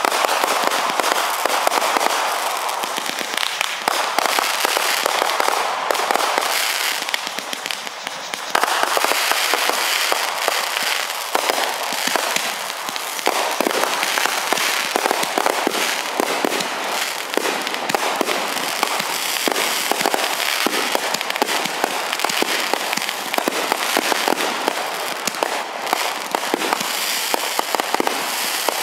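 Aerial fireworks going off in a dense barrage: many overlapping bangs and crackling bursts with no gaps, easing briefly about eight seconds in, then building again.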